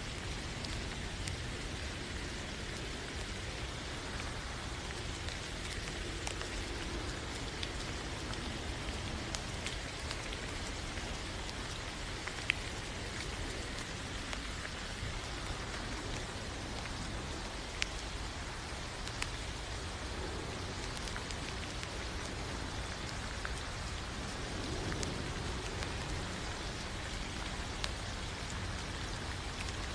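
Steady rain falling, an even hiss with a few sharper drops tapping now and then.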